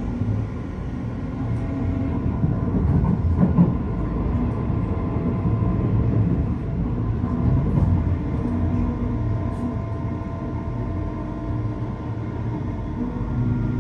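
Brisbane suburban electric train running: a steady rumble of wheels on track, with faint steady whining tones.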